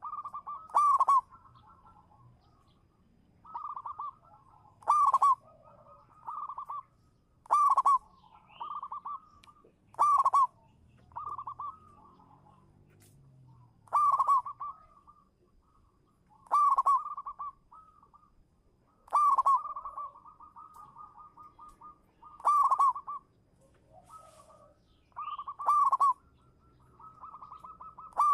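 Zebra dove (local perkutut) singing its cooing song: a loud ringing coo about every two to three seconds, each followed by a quick rolling run of softer coos at the same pitch.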